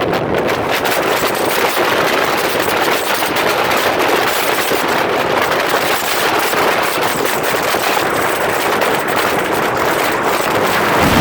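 Motorcycle on the move, heard as a loud, dense, rapid crackle of engine noise mixed with rushing wind on the microphone.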